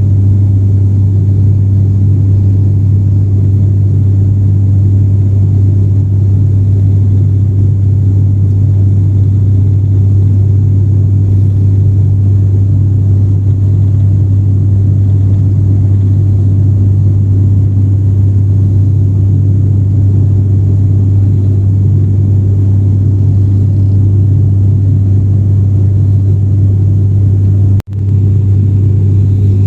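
Cabin drone of an ATR turboprop airliner in flight: the propellers' steady, loud low hum with a rumble beneath it, unchanging throughout. The sound briefly cuts out for a moment near the end.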